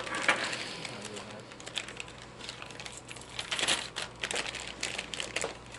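Irregular small clicks, taps and crinkling rustles of tools and parts being handled, over a steady low hum.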